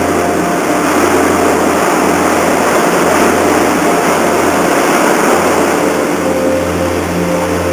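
Car ferry Ba-yu's engines and propellers running steadily as the ship comes in to berth: a low, even hum under a rushing noise that swells in the middle.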